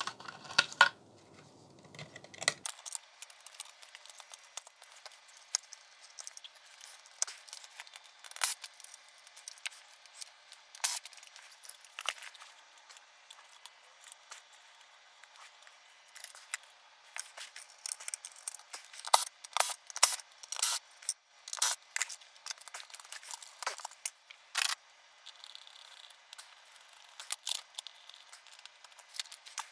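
Irregular sharp clicks and clacks of cable connectors being unplugged and boards and parts being handled inside a flat-screen TV, busiest in the second half.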